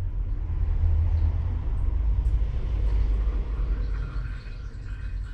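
Motor oil pouring from a plastic container into an oil barrel, a steady low rumble that eases off about four seconds in.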